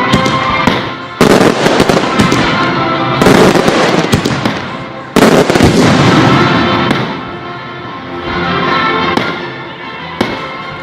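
Fireworks exploding over a music soundtrack: dense volleys of bangs and crackling start suddenly about a second in, again around three seconds and loudest around five seconds, then die down, with a single sharp pop near the end.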